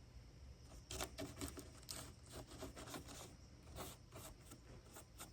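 Faint scraping, rustling and small clicks of hands working the glued halves of a foam RC airplane fuselage, starting about a second in.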